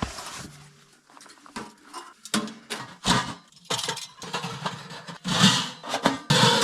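Irregular metal clanks, knocks and rattles from handling a small wood-burning tent stove and its chimney pipe sections, with a louder clatter about five seconds in.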